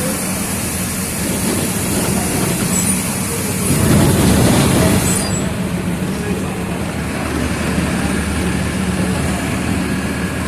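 Mercedes-Benz OF 1722M city bus's diesel engine running steadily, with road and body noise. A louder rush of noise rises about four seconds in, and a high hiss cuts off sharply about a second later.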